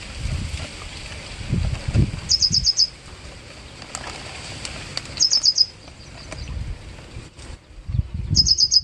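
A bird calling: a quick run of about five high notes, repeated every three seconds or so, three times, with patches of low rumbling underneath.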